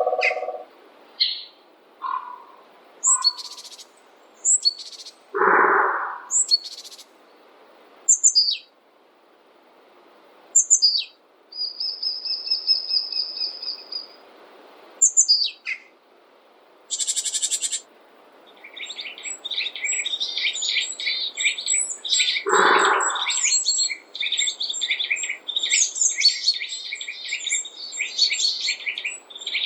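Several wild birds calling: short high chirps and sharp falling whistles, one held high note, and two lower, harsher calls. From about a third of the way from the end, a continuous rapid twittering chatter takes over.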